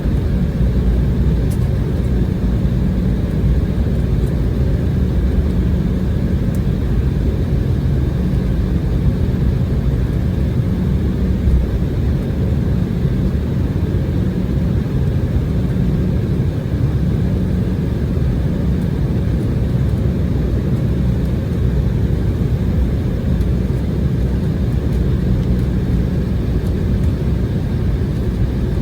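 Steady low rumble of an Embraer E190 jet's engines and airflow heard inside the passenger cabin as the aircraft rolls on the ground after landing.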